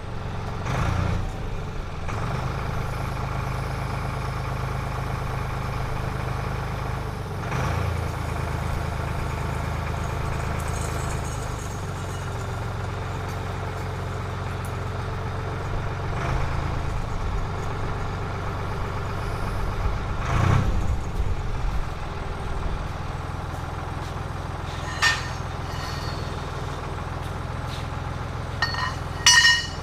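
Forklift engine running, its pitch shifting up and down a few times as it lifts and lowers a load, with a couple of sharp knocks near the end.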